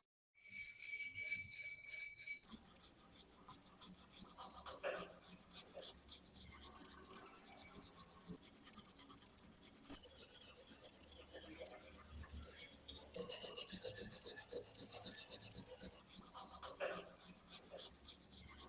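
Rapid rasping strokes of scraping on rusted metal, repeated over and over, starting after a brief silent gap.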